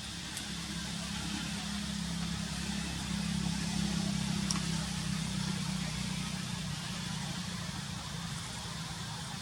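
A motor vehicle's engine humming, growing louder about a third of the way in and easing off again after the middle.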